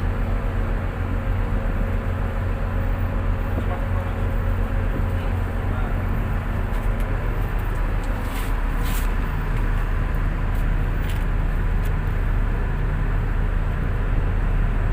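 Tugboat's diesel engines running with a steady low drone, with a few short clicks around the middle.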